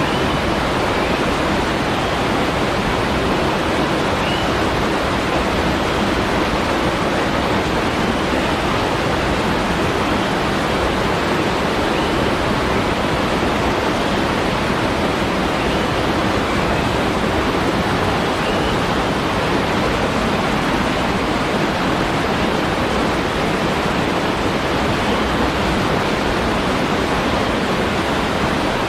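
Waterfall rushing steadily, an even, unbroken wash of water noise.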